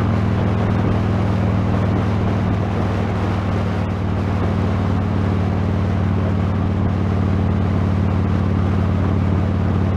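Motorcycle engine running at a steady cruise under heavy wind noise on a helmet camera's external microphone, tucked behind the helmet's cheek pad.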